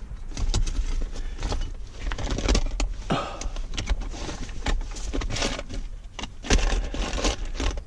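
Metal hand tools clinking and rattling as they are rummaged through and handled, a string of irregular clicks and clatters over a steady low rumble.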